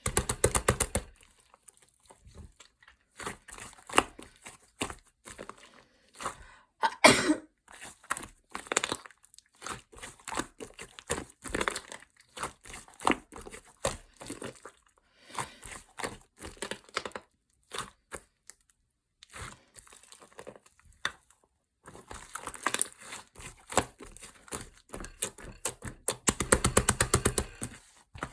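Melon bread's crisp crust crackling and tearing as it is broken apart, in a run of irregular crunches and crinkles, with a denser patch of rapid crackling near the end.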